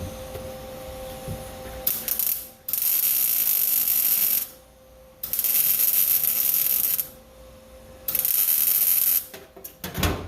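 MIG welder tack welding a sheet-steel truck floor pan: a short burst of arc crackle about two seconds in, then three crackling bursts of one to two seconds each with short pauses between them. A faint steady hum lies underneath.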